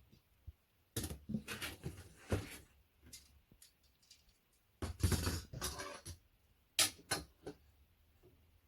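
Scattered knocks, clicks and rustling in irregular bursts as flat-pack furniture parts and fittings are handled.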